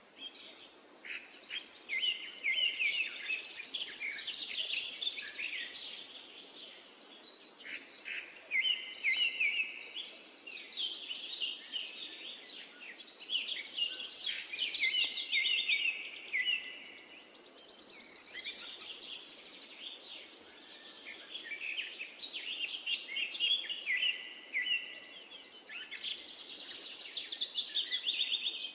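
Birds singing outdoors: bursts of quick chirps and short whistled notes every few seconds, some ending in a fast high trill.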